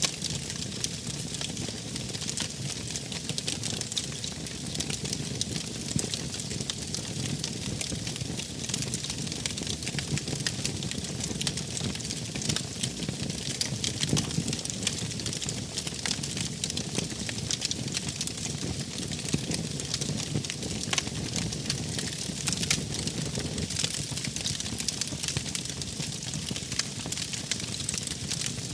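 Wood fire crackling, with frequent sharp pops and snaps over a low, steady rumble of burning flames.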